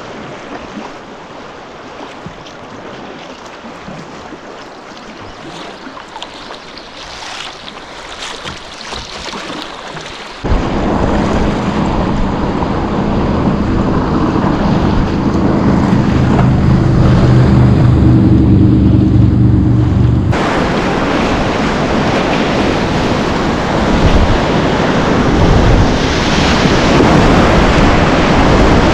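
Rushing river water around a kayak, with wind buffeting the microphone. The sound jumps abruptly louder about ten seconds in, with a heavy low rumble, and shifts again abruptly near twenty seconds.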